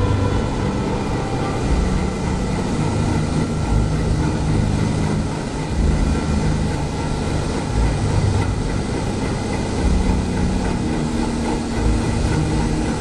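Ship's engine room machinery running: a loud, steady mechanical drone with a heavy low rumble.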